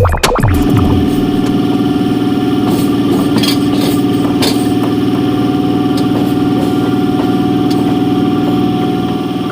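Electric local train (EMU) running along the line, a steady hum with a few faint clicks and rattles, easing a little near the end.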